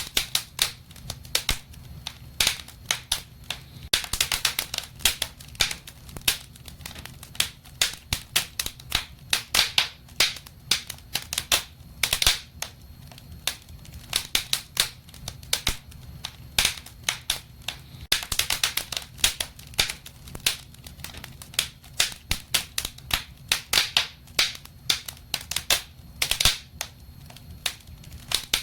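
Wood fire burning in a fireplace, crackling with many irregular sharp pops and snaps, several a second, over a low steady rumble of the flames.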